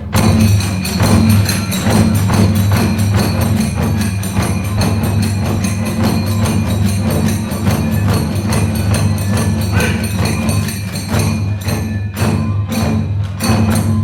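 Kagura ensemble playing fast: big and small drums beating under rapid clashing of tebyoshi hand cymbals, breaking into a few separate accented strokes near the end.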